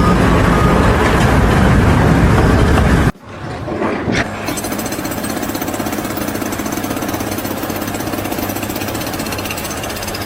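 Loud machine noise with a low hum that cuts off abruptly about three seconds in, followed by a fast, steady mechanical rattle of rapid hammering strokes, such as a construction breaker makes.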